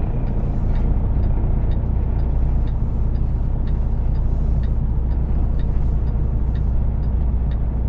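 Semi truck's diesel engine running steadily, a low drone heard from inside the cab, with a faint regular ticking about twice a second.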